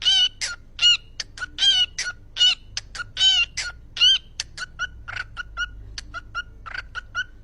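Ring-necked parakeet calling in a rapid series of short, shrill squawks, about two to three a second. The first four seconds hold longer, louder, wavering calls, followed by quicker, shorter chirps.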